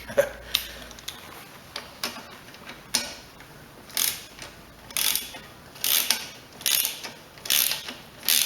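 Ratchet wrench clicking as a tight bolt is worked loose: a few sharp clicks at first, then a steady rhythm of ratcheting strokes about once a second.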